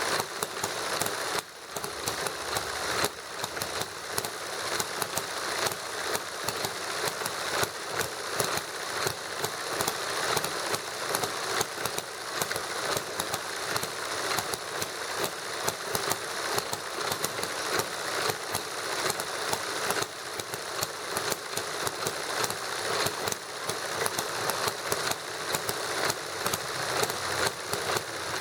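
Model hit-and-miss gasoline engine running with a Stirling engine kit: a steady mechanical clatter with regular louder pops.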